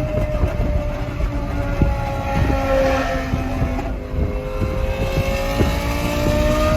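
Lamborghini Gallardo Superleggera's naturally aspirated 5.0 V10, fitted with an aftermarket exhaust, running at steady revs while the car is driven. The engine note sags slightly in pitch through the middle and climbs again near the end, over a heavy low rumble.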